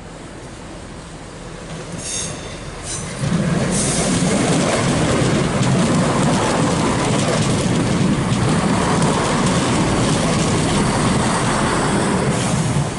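A train approaching and passing close by on the rails, growing louder over the first few seconds, then a loud, steady rumble of wheels on track that eases slightly near the end.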